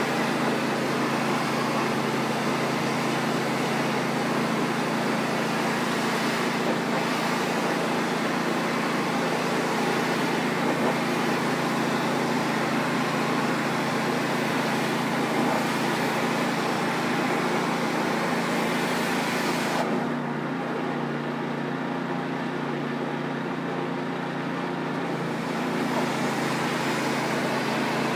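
A pressure washer's engine runs steadily under the hiss of its spray jet. About twenty seconds in, the spray hiss drops away for several seconds while the engine keeps running with a changed note, as when the trigger is released. The hiss builds again near the end.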